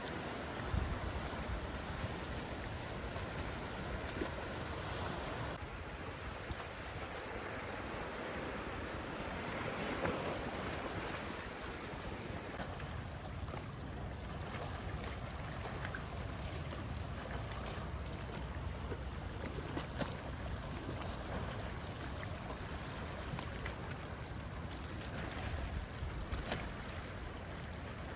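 Sea waves washing on the shore in a steady surf, with wind rumbling on the microphone; the surf swells briefly about ten seconds in.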